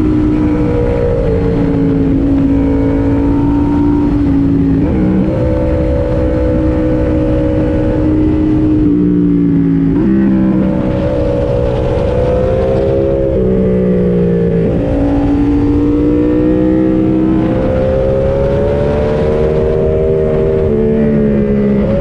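Yamaha MT-07's 689 cc parallel-twin engine under way on the road, pulling through the gears. Its pitch climbs and then steps abruptly several times, about every four to five seconds, as the rider shifts.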